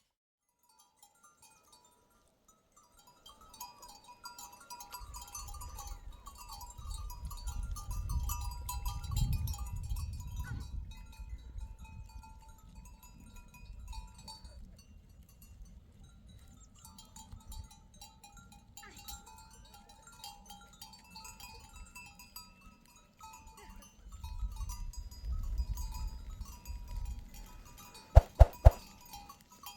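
A flock of sheep and goats bleating over and over, with gusts of wind rumbling on the microphone. A few sharp knocks come near the end.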